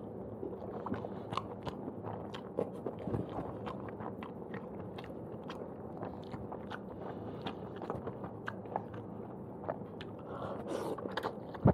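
Close-miked chewing of stir-fried udon noodles: steady wet mouth noise with many small clicks and smacks as the noodles are bitten and chewed.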